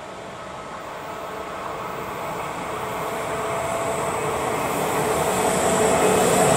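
Electric passenger train, an SBB Re 460 locomotive hauling coaches, approaching and growing steadily louder as a rumble of wheels on rail with a faint steady whine.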